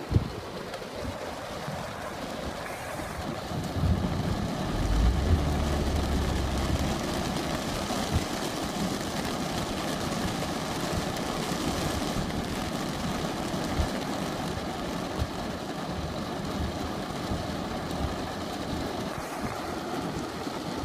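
Steady rain, with a low roll of thunder swelling about four seconds in and rumbling for a few seconds.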